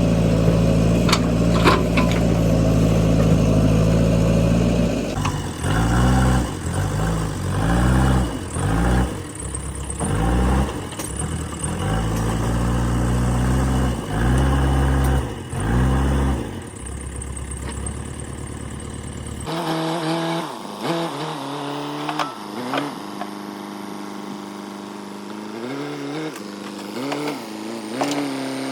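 JCB 3DX backhoe loader's diesel engine, running steadily at first, then revving up and dropping back over and over, each rise and fall lasting about a second, as the machine works. About two-thirds of the way in, the deep engine note cuts out suddenly and the revving goes on sounding thinner.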